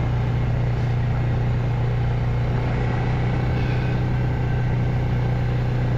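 Engine of a four-wheel-drive farm ATV running steadily, a low even hum with no change in speed.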